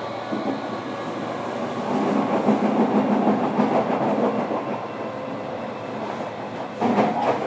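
Wheel and track noise heard inside a JR Kyushu 305 series electric train car (Toshiba PMSM traction motors) running between stations. The noise grows louder and rougher for a couple of seconds in the middle, and a short loud burst comes near the end.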